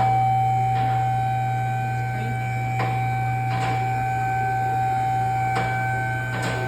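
A steady electrical or mechanical hum with several steady high tones, broken by a handful of sharp clicks or knocks.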